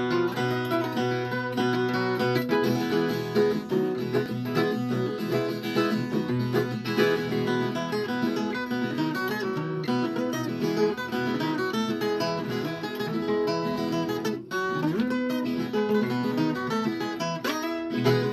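Viola caipira, the Brazilian ten-string folk guitar, picking a continuous instrumental melody with brief dips between phrases.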